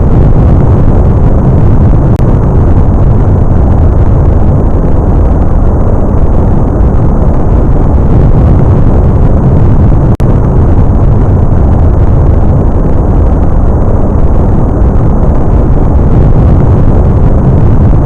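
SSLE3 hydrogen/liquid-oxygen open-cycle rocket engine firing on a test stand: a steady, very loud, low noise of rocket exhaust. It has a momentary break about ten seconds in.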